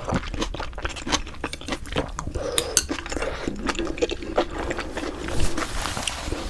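Close-miked chewing of pork bone hangover soup and glass noodles, with many quick wet mouth clicks and smacks.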